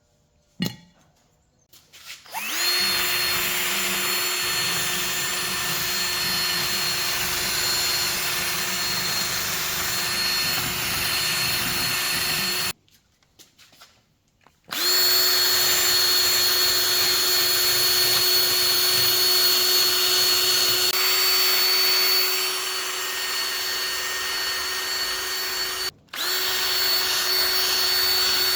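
Electric power drill running at a steady speed in long runs: it starts a couple of seconds in, stops for about two seconds partway through, then runs again with a brief cut near the end. A few small clicks come before the first start.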